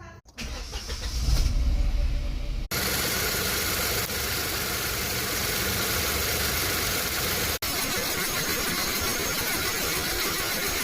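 Hyundai HB20 engine starting, with a loud low rumble for about two seconds, then running steadily on its newly fitted accessory and power-steering belts.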